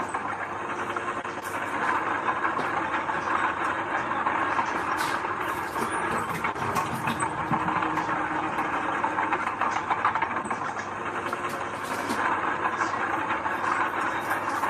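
Heavy diesel earth-moving machinery running steadily, with scattered sharp clicks and rattles.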